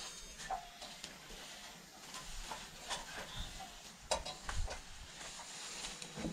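Scattered light clicks and taps of small objects being handled over a faint hiss, with a sharper knock about four seconds in.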